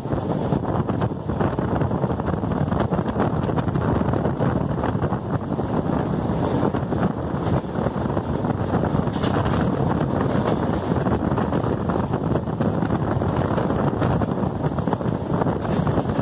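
Steady rush of wind on the microphone mixed with the running noise of a passenger train's wheels on the rails, heard from an open coach doorway while the train is moving at speed.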